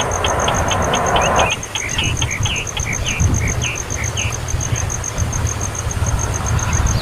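A baby bird begging: short high chirps repeated several times a second, turning into a run of short falling calls about two seconds in. Behind it are a steady low rumble, a hiss that cuts off suddenly, and a fast, even, very high pulsing.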